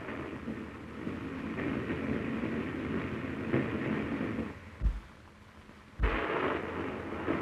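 Steam express train running at speed: a steady rumble and rail noise. About four and a half seconds in the sound drops away with a low thump, then returns with another thump a second and a half later.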